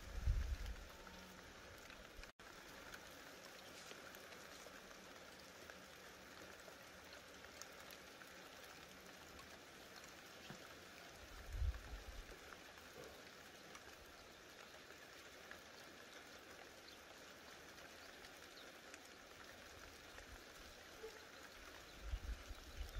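Light rain falling, a steady fine patter of drops. A short low rumble comes about halfway through, and another builds near the end.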